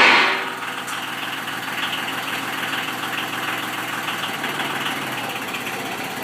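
An engine idling steadily, after a loud rushing noise dies away in the first half second.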